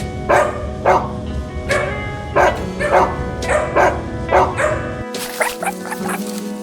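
Background music with an animal's short, yapping calls repeated about every half second. About five seconds in, the calls give way to higher, sharper chirps.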